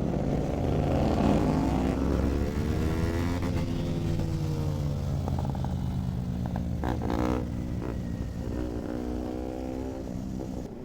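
Kawasaki Z900 inline-four motorcycle engine running on the move, its pitch rising and falling as it revs up and eases off.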